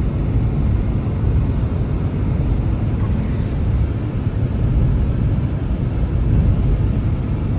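Strong blizzard wind blowing, a steady low rumble with no let-up.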